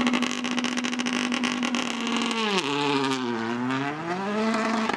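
Rally car engine held at high revs with a rapid crackle for about two and a half seconds, then the revs drop, sag and climb back up before holding steady again.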